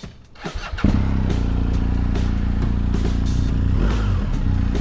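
BMW R 1250 GS Adventure's boxer-twin engine started: a few faint clicks, then about a second in it catches suddenly and settles into a steady idle.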